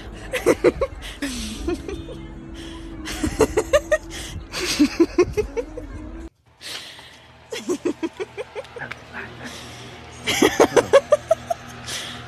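Several runs of rapid human laughter, short "ha-ha-ha" pulses at about five a second, over background music.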